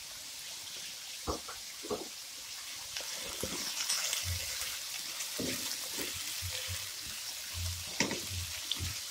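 Chopped onion, garlic and sweet pepper sizzling steadily in a nonstick frying pan. A spatula stirs them, scraping and knocking against the pan several times from about a second in.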